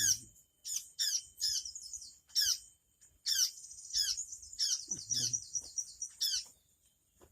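Ciung air birds calling: a run of sharp, downward-sliding chirps repeated every half second or so.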